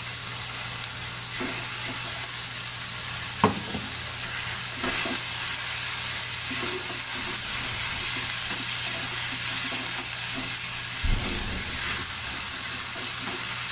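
Raw minced pork sizzling as it starts to fry in hot oil in a nonstick pan with onion, garlic, potato and carrot, a steady hiss while a spatula stirs it. A sharp knock comes a few seconds in and a dull thump near the end as the spatula works the pan.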